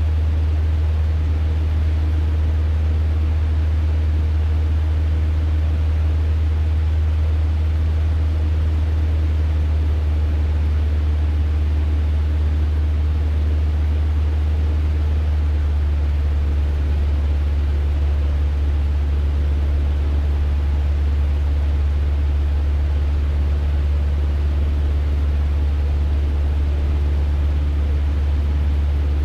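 Cessna 150's four-cylinder Continental O-200 engine and propeller droning steadily in flight, with a loud low hum and no change in power.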